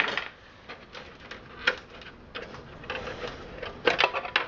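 Plastic clicks and rattles of computer power and data cable connectors being handled and pulled from the drives inside a PC case: scattered sharp clicks, with a small cluster of them near the end.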